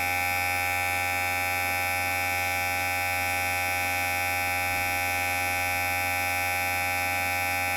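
Electric hair clipper running with a steady, unchanging buzz: a low hum under a high whine.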